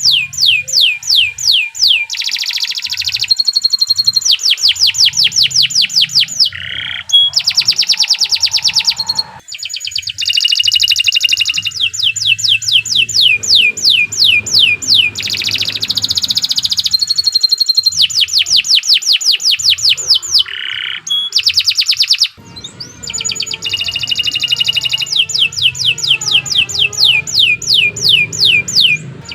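Domestic canary singing a long, continuous song of rapid trills, each a fast string of repeated sweeping notes, with the phrase changing every second or two.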